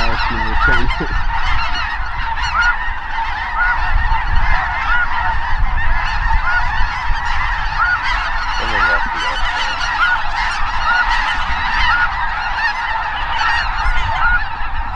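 A dense, continuous chorus of snow geese calling, many overlapping high honks. One call repeats at even spacing throughout.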